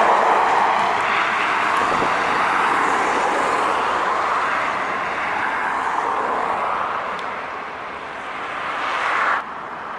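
Heavy trucks passing on a highway: a steady rush of tyre and diesel engine noise that swells and fades. It builds to a peak and cuts off abruptly near the end.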